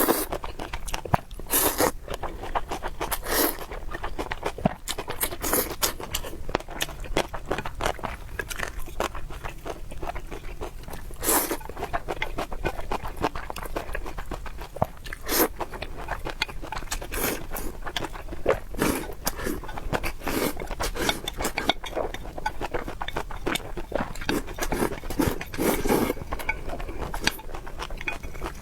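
Close-miked eating: chewing with wet mouth smacks and crunchy bites, a dense, irregular run of clicks.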